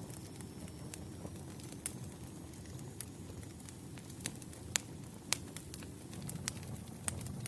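Campfire burning with a low steady rumble of flames and scattered sharp crackles and pops of burning wood, a couple of louder pops about halfway through.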